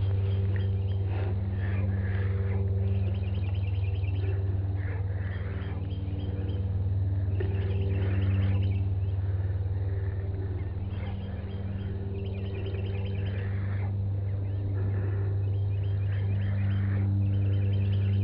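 Birds chirping repeatedly over a steady low hum.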